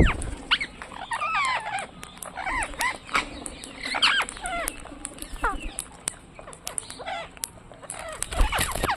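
Parrot chattering: a string of short squeaky calls and whistles that glide up and down in pitch, with clicks in between.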